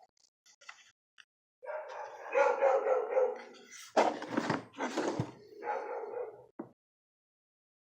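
A dog barking in a run of loud barks over several seconds.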